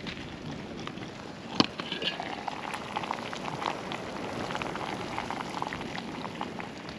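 Campfire crackling and hissing, with mulled wine in a billy simmering on the coals. One sharper crack about a second and a half in.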